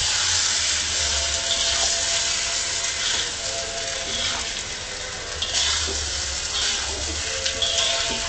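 Chicken pieces sizzling loudly in hot oil, stirred with a spoon, with occasional scrapes and knocks against the pan. The chicken has just gone into oil that is already hot with fried onion and spices.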